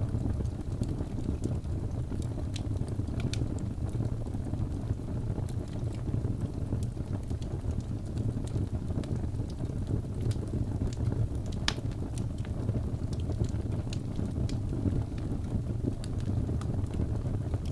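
Crackling fire: a steady low rumble with scattered sharp pops and snaps, one louder pop about two-thirds of the way through.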